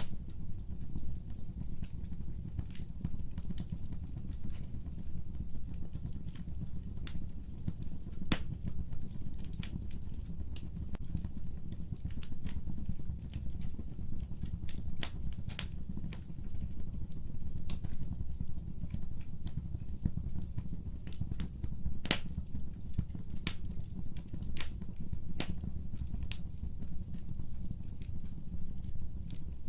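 Fire crackling in a fireplace: irregular sharp pops and snaps, several a second at times, over a steady low rumble of flame.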